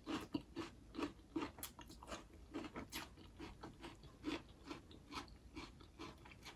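A person chewing a mouthful of rice-noodle salad with crisp vegetables, soft crunches with each chew, roughly two a second.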